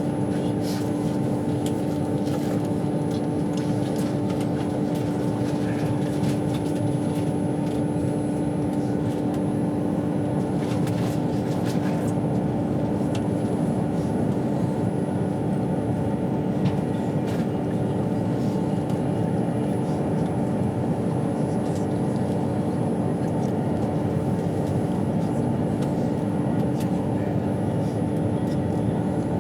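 Steady rumble of an intercity passenger train running at speed, heard from inside the carriage, with a constant hum and scattered faint ticks.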